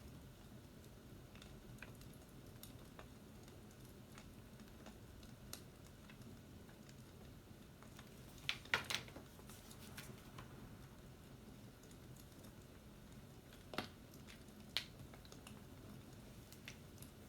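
Faint, scattered sharp clicks and taps over a quiet steady background, with a few louder ones bunched together about halfway through and two more near the end.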